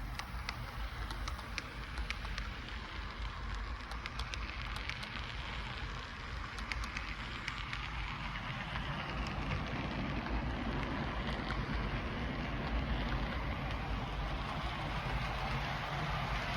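HO scale model train, a Rapido F40PH locomotive pulling three Comet cars, running on the track: a steady rolling rush of metal wheels on rail with scattered small clicks. It grows louder from about halfway through.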